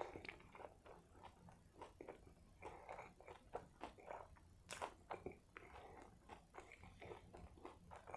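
Quiet, close-miked chewing of a mouthful of burger: irregular wet smacks and small clicks of the mouth, with one sharper click a little before halfway.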